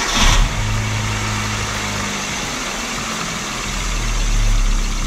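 Hyundai Getz 1.4 four-cylinder petrol engine running at idle, with a brief louder rush in the first half-second.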